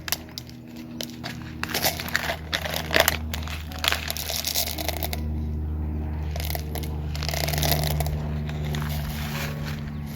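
Compost soil being scooped and handled, with irregular crunching and crinkling. A steady low hum runs underneath from about four seconds in.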